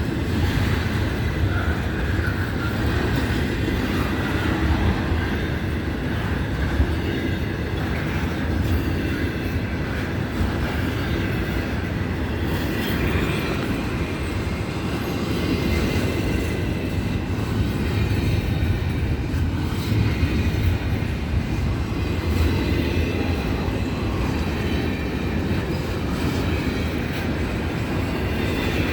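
Florida East Coast Railway train's cars rolling past, a steady low rumble of wheels on rail with occasional clicks and a faint high wheel squeal now and then.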